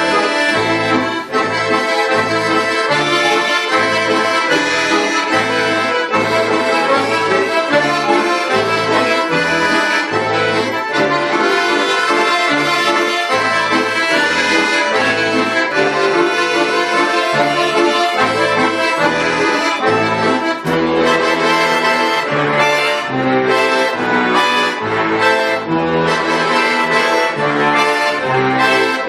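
Accordion playing a folk-style piece: a melody over a regular pulse of bass notes.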